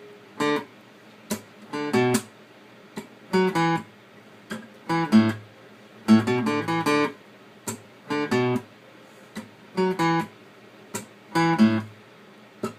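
Acoustic guitar playing the song's intro: short, clipped strummed chords, some in quick pairs, with muted string scratches between them.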